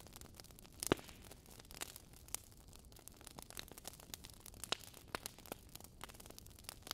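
Wood fire crackling in a fireplace: irregular small pops and snaps over a low hiss, with one louder pop about a second in.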